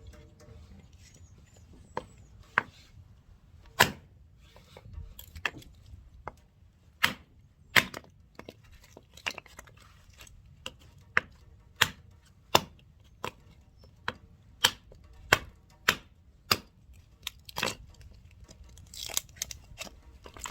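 Firewood being split into kindling: a blade chopping into wood in sharp strikes, a few scattered at first, then a steady run of about one chop every two-thirds of a second.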